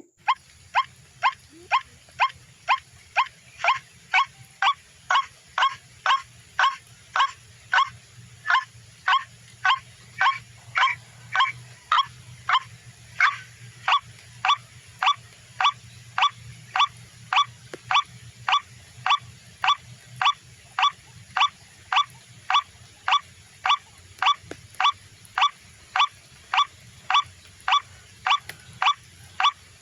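White-breasted waterhen 'ruak-ruak' call played over and over through a Bluetooth speaker as a bird lure. Short falling notes repeat at an even pace of nearly two a second, starting suddenly, with a faint steady electronic whine behind them.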